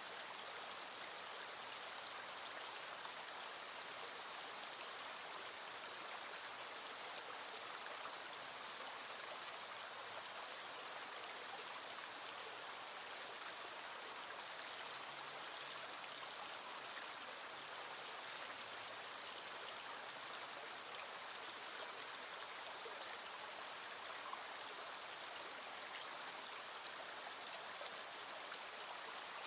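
Small stream flowing, a steady even rush of water.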